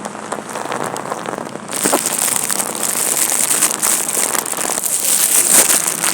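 Heavy rain falling and splattering on surfaces, a dense crackling hiss that gets suddenly louder about two seconds in.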